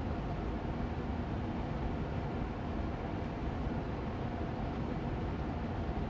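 Air purifier fan running steadily on medium speed: an even whooshing rush of air with a faint steady hum, unchanging throughout.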